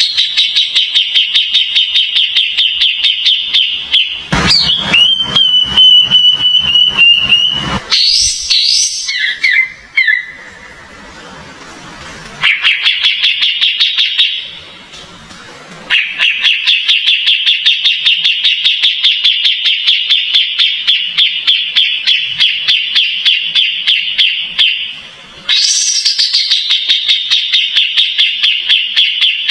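Recorded song of a kapas tembak, a long rapid run of repeated chirping notes at about three to four a second, broken by two short pauses. About four seconds in, a different, steadier whistled passage comes in for a few seconds.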